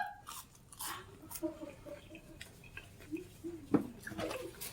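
Close-miked chewing and mouth sounds of someone eating fried food: soft irregular crunches and wet clicks, with a faint voice in the background.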